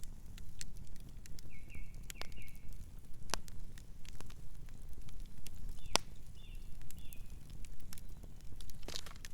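Campfire burning: a steady low rumble of flames with scattered crackles and sharp pops, the loudest about six seconds in. A few short, high chirps come around two seconds in and again six to seven seconds in.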